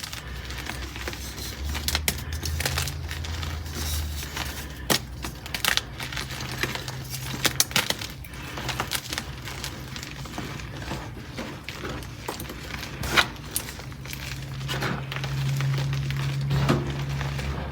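Gym chalk being crushed and crumbled, a run of irregular dry crunches and crackles with some sharper snaps.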